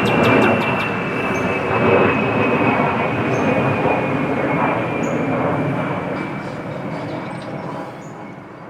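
Military aircraft's turbine engines passing overhead: a loud rumble with a high whine that slowly drops in pitch, fading away over the last few seconds.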